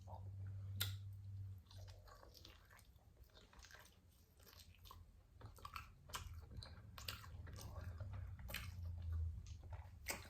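A person chewing food close to the microphone, with wet mouth clicks and smacks scattered through the chewing. Food being eaten here includes spare ribs.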